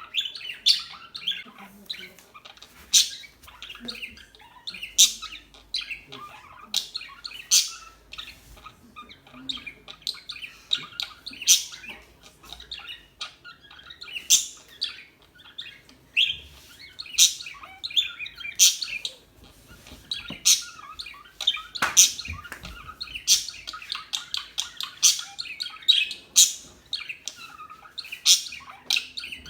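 Small birds chirping: short, sharp, high-pitched calls, one or two every second, with a softer chatter of calls beneath.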